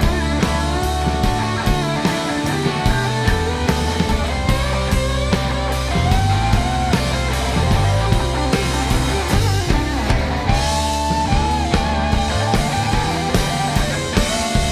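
Live rock band playing an instrumental passage on electric guitars, bass guitar and drum kit, with a lead guitar line sliding and bending between notes.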